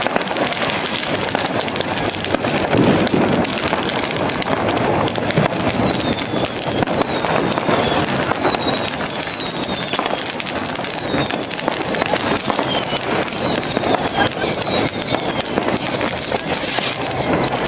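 Street fireworks: continuous crackling from ground fountains and firecrackers. In the second half a run of short whistles, each falling in pitch, joins the crackle.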